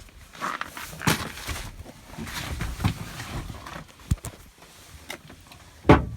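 Scattered knocks, rustles and footsteps of someone moving about and climbing into a pickup's cab in bitter cold, with a loud thump near the end.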